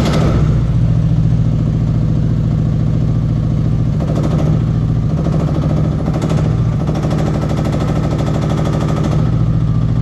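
Mini excavator's diesel engine running steadily just after starting, with a strong low, even drone.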